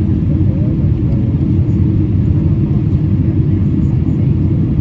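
Steady low rumble of a Boeing 777-300ER heard from inside the cabin: engine and airflow noise, even and unbroken.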